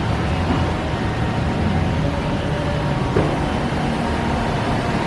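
Steady road traffic noise: a continuous low rumble and hiss of passing vehicles.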